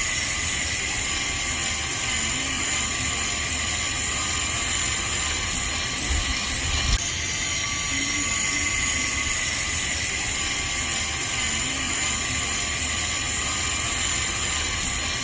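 Steady whirring of a small motor running without a break, with a constant high whine.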